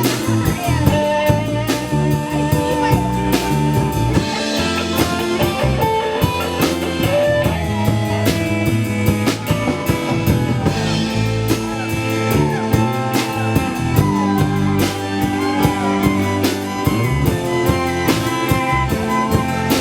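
A live rock band playing an instrumental passage: a drum kit keeping a steady beat under a bass line, with a guitar playing lead lines with bent notes.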